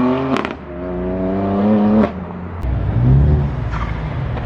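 A vehicle engine accelerating hard, its pitch climbing and then cut off sharply twice by gear changes, each with a short crack. It settles into a lower rumble near the end.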